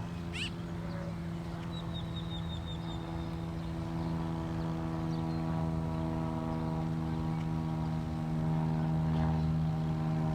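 Motor of a radio-controlled model rescue boat running steadily under power as it pushes a stranded boat. It grows louder about four seconds in and again near eight seconds.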